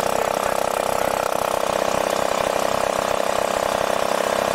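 Honda EM3800SX generator's single-cylinder engine running steadily at an even pace. It now runs well on a new carburetor, with the choke freed and the fuel and idle screws adjusted.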